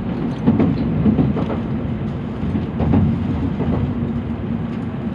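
N700 series Shinkansen running noise heard inside a passenger car: a steady low rumble, with a few short wheel knocks near the start and again about three seconds in.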